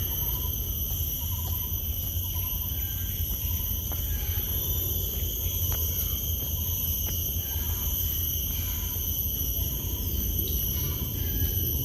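Steady, high-pitched buzzing chorus of forest insects, layered in several constant bands, over a low rumble, with faint short calls here and there.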